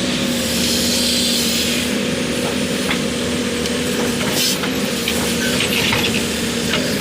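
Diesel engine of heavy earth-moving machinery running steadily, holding one pitch under a noisy mechanical clatter.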